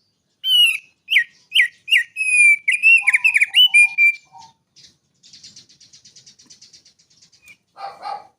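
A songbird singing: a rapid run of loud, clear whistled notes, most sliding downward, then a fast, high buzzy trill, and a harsher, rougher burst near the end.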